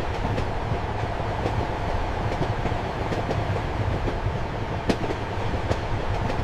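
Train running, heard from inside a passenger compartment: a steady low rumble and rolling noise, with sharp clacks of the wheels over rail joints about once a second.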